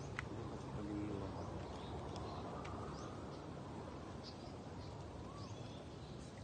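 Quiet outdoor ambience: a steady low hiss with faint, scattered bird chirps and a few soft ticks.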